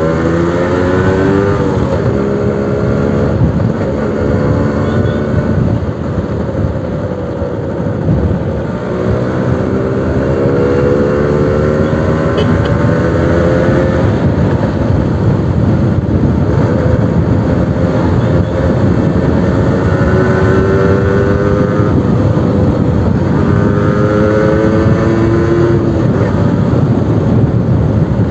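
Suzuki RC100 two-stroke single-cylinder engine running through a new exhaust. Its pitch climbs for several seconds at a time and then drops back, several times over.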